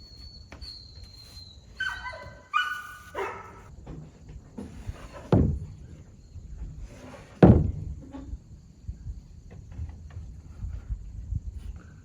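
Two heavy, hollow wooden thunks about two seconds apart, the second the louder, like lumber being knocked or dropped on a deck frame. Before them come a couple of short pitched calls.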